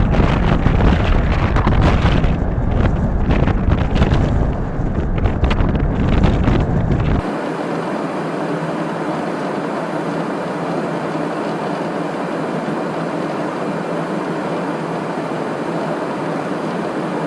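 Jet aircraft noise: a loud, buffeting rumble heavy in the low end that cuts off suddenly about seven seconds in, giving way to a steady, even hiss of airflow.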